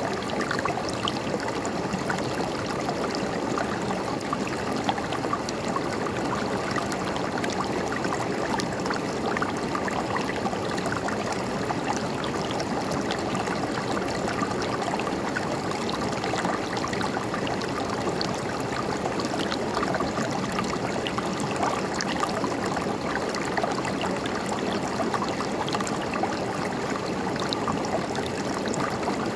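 River water flowing and babbling over stones, a steady dense rush with small splashes throughout.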